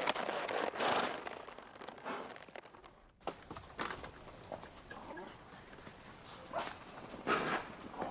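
Horses moving about: scattered hoof knocks and stamps, louder near the end, with a short break about three seconds in where the sound drops out.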